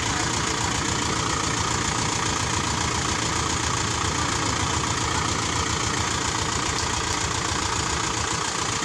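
Heavy diesel engine of construction machinery running steadily, with a rapid low pulsing of its firing.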